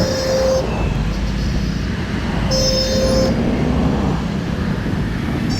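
Road traffic noise and wind rumble from a ride through city streets. A vehicle horn sounds two short beeps, one at the start and one about two and a half seconds in.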